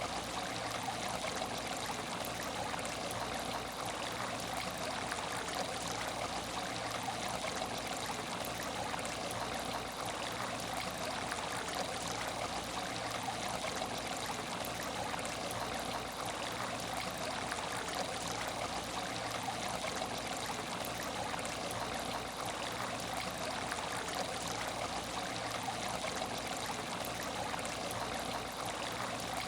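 Aquarium tank water trickling and burbling steadily, an even, unbroken water noise.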